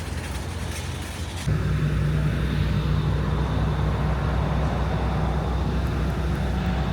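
Busy outdoor noise, then from about a second and a half in, a steady low drone of a passenger ferry's engine heard on board.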